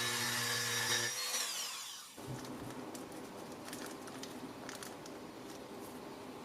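Milwaukee cordless screwdriver's electric motor running at a steady high pitch, then released about a second in and winding down over about a second. A faint steady hiss with a few light clicks follows.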